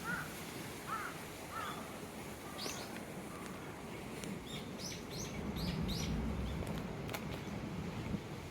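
Small birds chirping: three short calls in the first two seconds, then a quicker run of higher chirps in the middle, over a low steady rumble.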